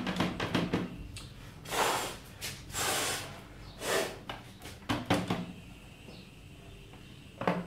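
Dust being cleared out of the inside of a UPS: three short rushing bursts about two to four seconds in, between light clicks and knocks from handling the unit.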